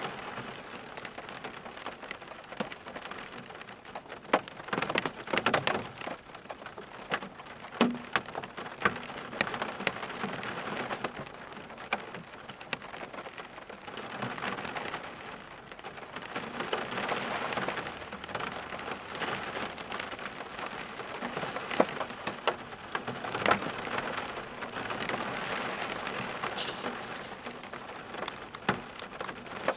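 Steady rain falling, with irregular louder drops striking close by as sharp taps.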